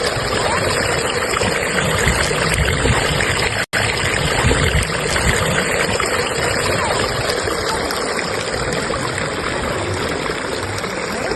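River current rushing steadily over stones: continuous water noise, broken by a split-second dropout a little under four seconds in.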